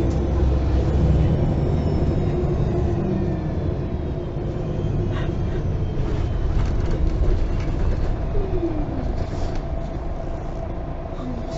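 Ride sound inside a MAN Lion's City G articulated city bus under way: the diesel engine and drivetrain running steadily, with road noise and a few short rattles from the cabin.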